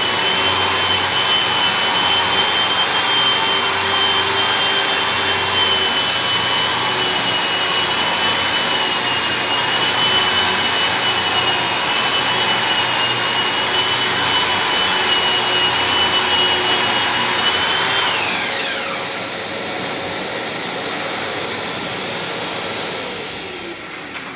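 Dexter giraffe drywall sander and Mirka dust extractor running together, a steady whine over rushing airflow as a plastered ceiling is sanded. About three-quarters of the way through, the high whine glides down as one motor is switched off and spins down, and near the end the remaining machine winds down too.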